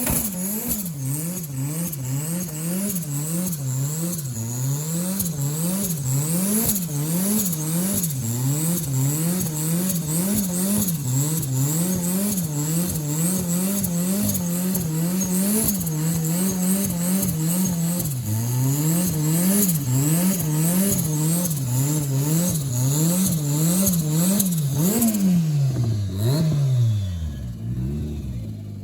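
Car burnout: the engine is held at high revs, its pitch swinging up and down over and over as the throttle is worked, over the steady squeal of spinning tyres. Near the end the revs drop away and the tyre squeal stops.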